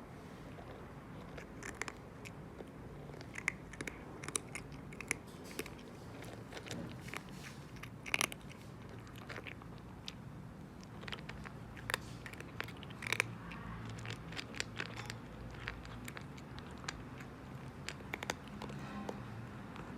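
Calico cat chewing its food, with short, irregular crunches.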